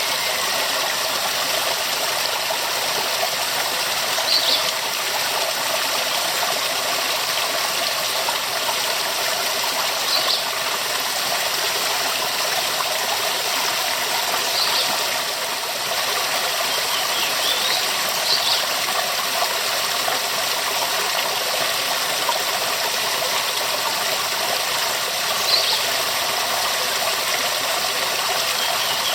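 Waterfall: water falling and splashing in a steady, unbroken rush. A few short high chirps sound over it at scattered moments.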